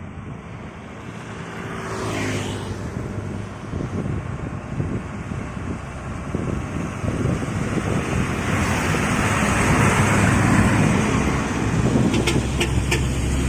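Heavy truck approaching along the road, its engine and tyre noise growing steadily louder, with a low engine drone building in the second half and a few sharp clicks near the end.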